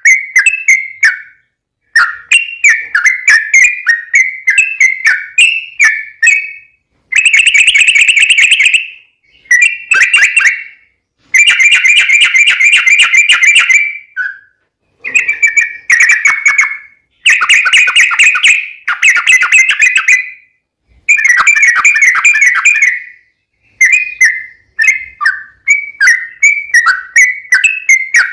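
Yellow-vented bulbul (trucukan) singing loudly. Its short bubbly, whistled phrases alternate with long rapid chattering runs, the drawn-out 'ropel' song used as a lure to draw other bulbuls into answering.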